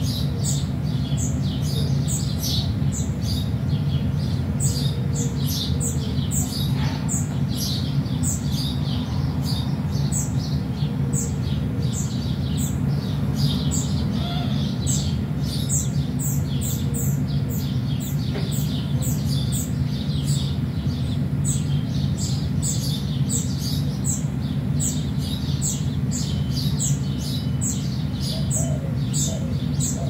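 Small birds chirping and tweeting in quick, overlapping high calls, several a second without pause, over a steady low hum.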